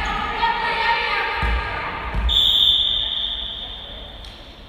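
A referee's whistle blown in one long steady blast of about two seconds, starting about halfway in, after voices in the gym hall and a couple of thumps of the volleyball being hit.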